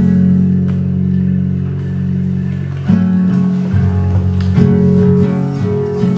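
Acoustic guitar playing sustained chords with no singing, moving to a new chord about three seconds in and again a second and a half later.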